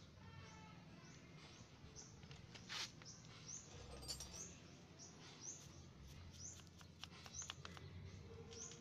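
Mostly quiet, with a small bird giving a short high chirp about once a second and a few light clicks.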